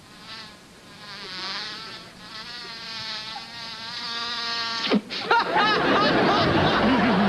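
Mosquito buzzing, a wavering whine that grows louder over several seconds. It is cut short about five seconds in by a sharp slap, followed by a few quick chirps.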